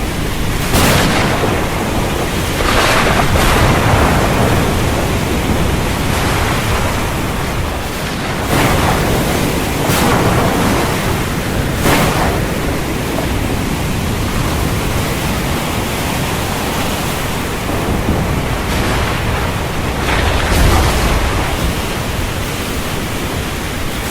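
Storm wind over the sea with waves surging and breaking, a constant rush swelling into repeated loud surges every few seconds.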